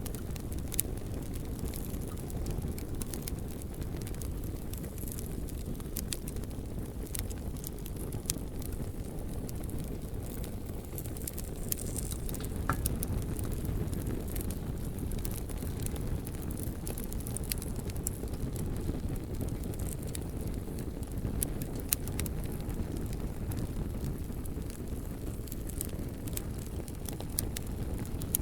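Campfire burning, with frequent irregular crackles and sharp pops from the burning wood over a steady low rumbling noise.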